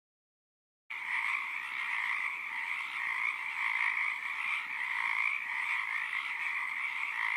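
Chorus of many frogs calling at once, a dense, steady din that starts about a second in.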